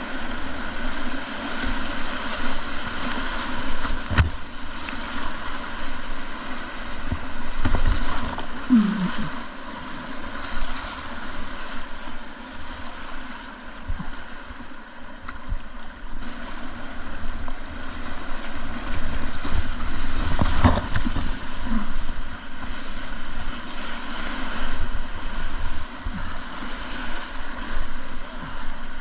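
River whitewater rushing and splashing around a kayak on the move, with a few thumps, one about four seconds in and another about twenty seconds in.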